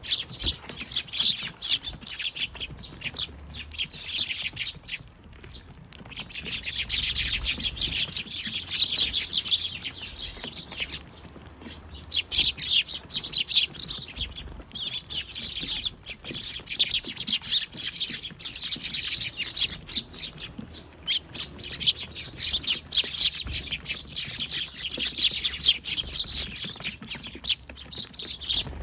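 A group of Eurasian tree sparrows, adults and fledglings, chirping rapidly and almost without pause, with a few short lulls.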